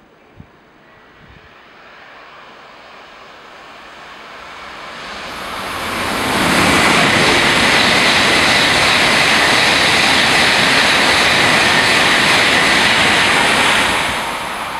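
Shinkansen bullet train passing at high speed. A rush of air and wheel noise builds as it approaches, holds loud and steady with a thin high whine for about seven seconds as the cars go by, then falls away as the tail passes.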